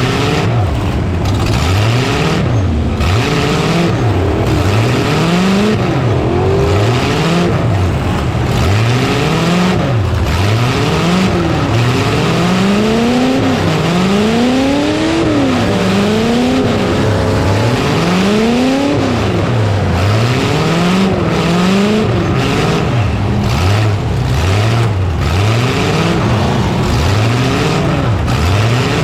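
Demolition derby truck engines revving hard, their pitch climbing and falling again and again in overlapping surges as the trucks accelerate, back up and ram.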